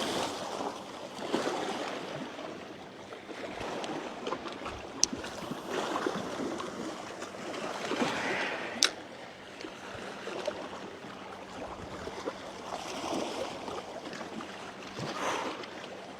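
Small waves washing in and out, swelling and falling every few seconds, with two sharp clicks partway through.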